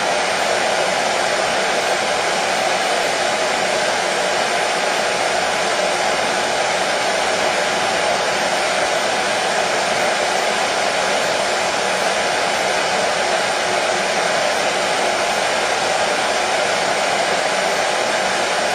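Hair dryer blowing steadily: a constant whooshing rush of air and motor noise, even throughout, played as a soothing sleep sound for colicky babies.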